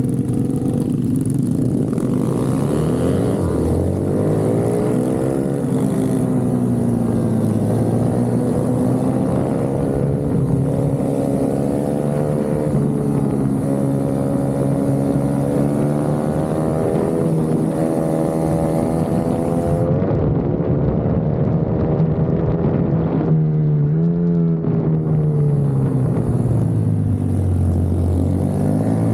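Racing minibike engine heard from on board, revving hard and falling back again and again as it accelerates and slows through the lap. Deeper drops in revs come a few seconds in, around two-thirds of the way through, and near the end.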